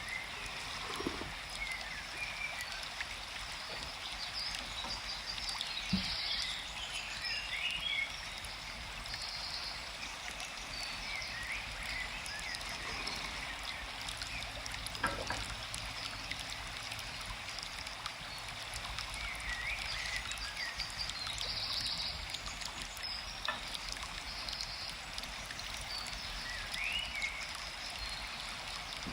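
Forest ambience: a steady flowing stream with small birds chirping now and then, and a couple of soft knocks.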